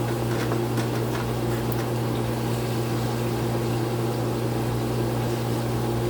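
Chicken frying in hot oil: a steady sizzle with a few crackling pops in the first second or so, over a steady low hum.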